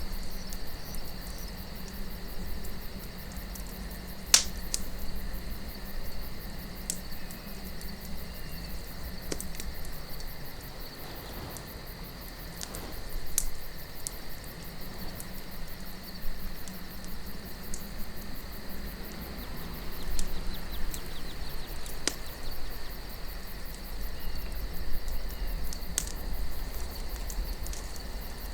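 Wood campfire crackling, with sharp pops scattered every few seconds, the loudest about four seconds in. Under it run a steady high chirring of crickets and a low rumble of wind.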